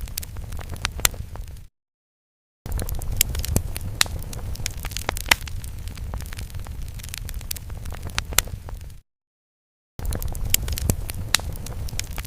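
Fire sound effect: crackling flames with sharp pops and snaps over a low rumble, broken twice by about a second of dead silence, once near the start and once near the end.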